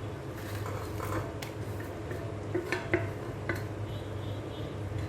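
Metal spoon stirring in a cooking pot, with a few sharp clinks against the pot's side over a steady low hum.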